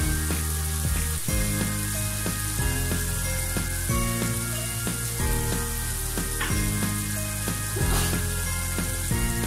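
Beef curry with onions and spice paste sizzling steadily in a non-stick wok as the masala is fried down, over background music.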